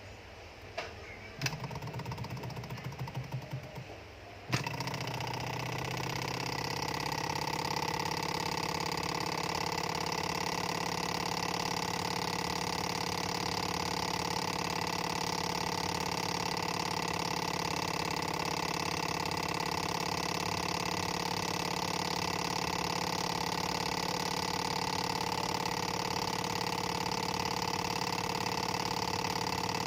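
Small model Stirling engine with a few clicks and a brief rattle, then starting suddenly about four and a half seconds in. It comes up to speed over the next couple of seconds and runs steadily with an even mechanical hum.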